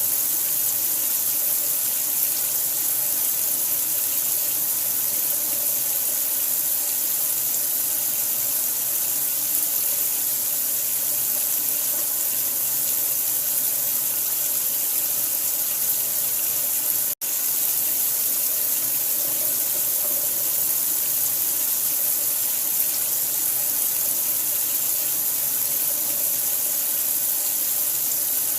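Steady running water, a continuous hissing stream like a tap running into a sink. It cuts out for a split second about two-thirds of the way through, then resumes unchanged.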